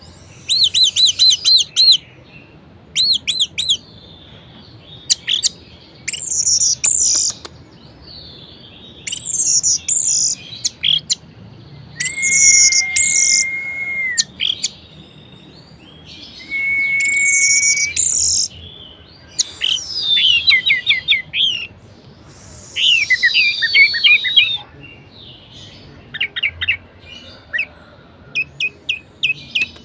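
Orange-headed thrush (anis merah) in full, varied song, delivered in separate loud phrases with short pauses: quick runs of repeated high notes, two steady held whistles in the middle, falling sweeping phrases after them, and a string of short quick notes near the end.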